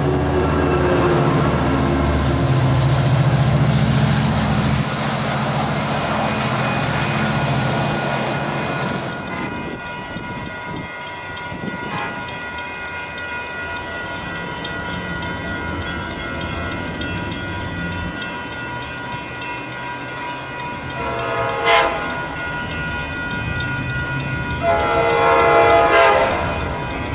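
Diesel passenger train running past, with engine and wheel noise loud for about the first nine seconds before it falls away. Near the end a Nathan K5LA air horn sounds its chord, first in one short blast and then in a longer one.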